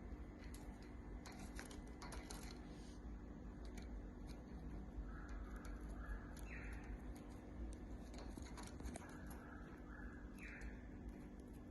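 Budgerigar giving two soft chirping phrases, each of a few short notes ending in a rising one, with scattered light clicks from its beak over a low steady hum.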